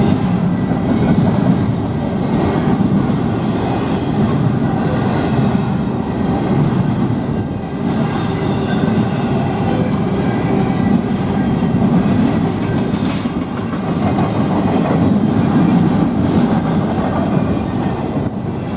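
Freight train cars rolling steadily past, their wheels clattering over the rails.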